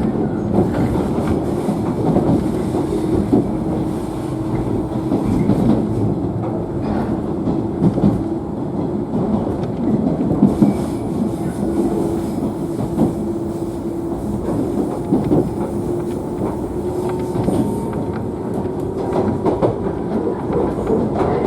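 JNR 113 series electric train running, heard from inside a motor car: a steady traction-motor hum with wheels clicking over the rail joints.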